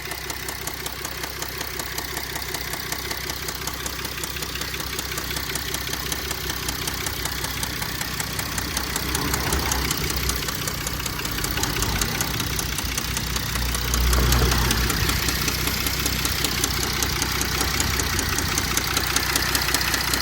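Mercedes-Benz CLS 320 CDI's 3.0-litre V6 diesel engine running with a fast, even knocking, which the owner takes for a bad rod bearing. It grows louder for a moment about two-thirds of the way through.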